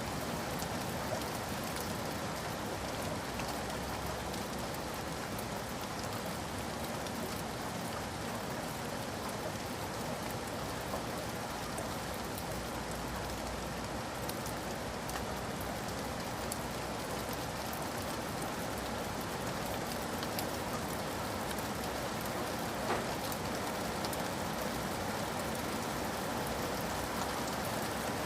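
Steady rain falling on a cabin roof, with many small drops tapping through an even hiss and one slightly louder tap about 23 seconds in.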